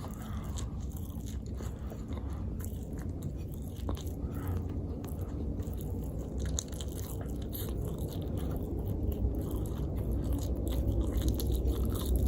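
Close-miked chewing and biting of food: many small mouth clicks over a steady low rumble, growing slightly louder near the end.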